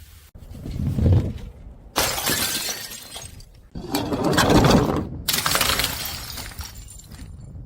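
Glass bottles shattering: a low rumble builds, then three sudden crashes of breaking glass come about a second and a half apart, each trailing off into rattling shards.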